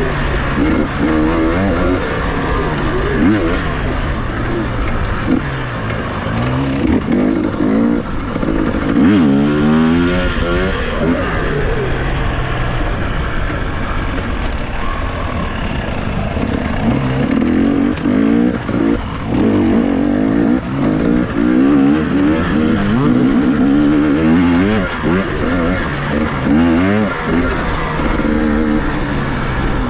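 KTM two-stroke enduro motorcycle engine revving up and down repeatedly while riding off-road, its pitch climbing and dropping every second or two as the throttle opens and closes.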